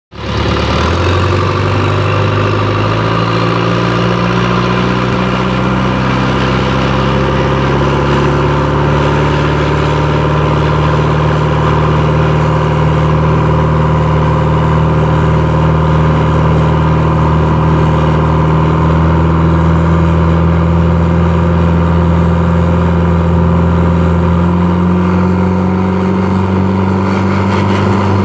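Chevrolet S10 pickup's Maxion turbo diesel engine idling steadily, its speed rising slightly near the end.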